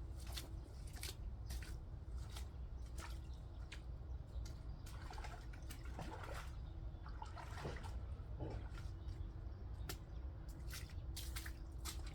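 Soil being shovelled and packed into a gap at the edge of a garden bed: irregular short scrapes, knocks and squishy pats.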